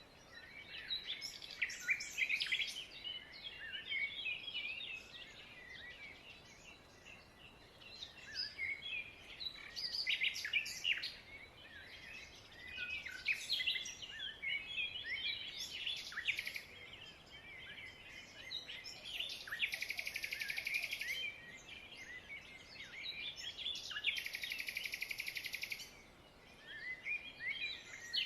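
Many small birds chirping and twittering at once, short overlapping calls with quick rising and falling notes. Twice in the second half a longer buzzy trill of rapid pulses runs for a second or two.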